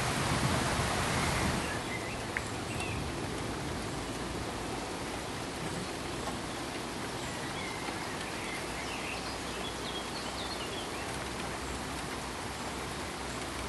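Steady pink noise, a smooth even hiss across the whole range. Just under two seconds in it drops a little in level, and faint high chirps come and go over it.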